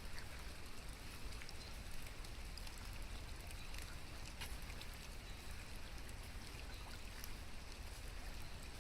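Steady rain falling, with scattered sharp drop ticks over an even hiss and a low rumble underneath.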